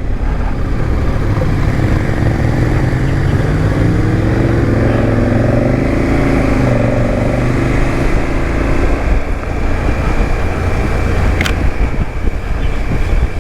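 Motorcycle on the move, heard through heavy wind rush on the rider's microphone. The engine note rises and holds from about three seconds in, then fades back under the wind. There is a single sharp click near the end.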